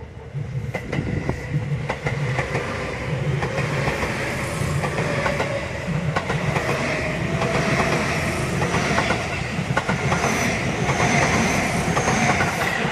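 Seibu Railway electric commuter train passing close by: a steady rumble with repeated clicks of the wheels over rail joints, starting about half a second in. A thin high whine comes in near the end.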